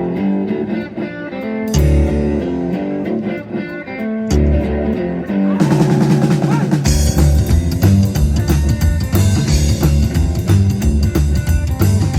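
A band playing guitar-led music: a guitar riff punctuated by heavy bass and drum hits. Cymbals come in about five and a half seconds in, and the full band settles into a steady drum and bass beat about seven seconds in.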